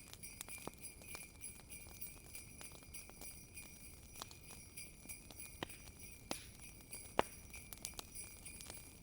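Jingle bells ringing as a continuous high shimmer over a wood fire crackling with irregular sharp pops; the loudest pop comes about seven seconds in.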